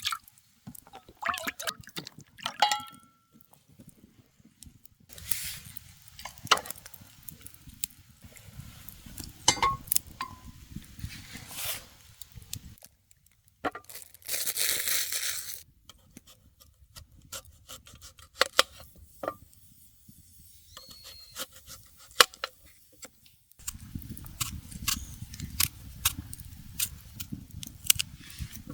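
Scattered clinks, taps and knocks of camp gear being handled, with a brief hiss about fifteen seconds in.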